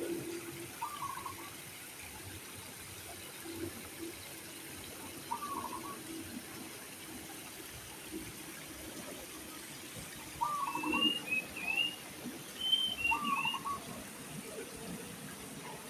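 Trickling water under bird calls: one bird repeats a short call about every four to five seconds, and a few higher, quick chirps come in the second half.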